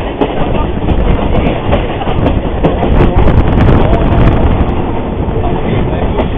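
Moving train rumbling steadily, with its wheels clattering over the rail joints.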